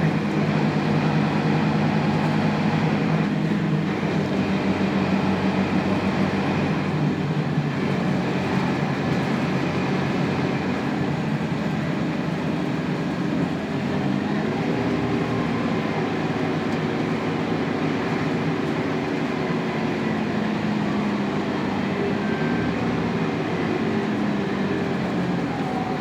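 Scania K280UB bus's 9-litre inline five-cylinder turbo diesel running steadily with road noise. Its note shifts up and down in pitch a little past the halfway mark.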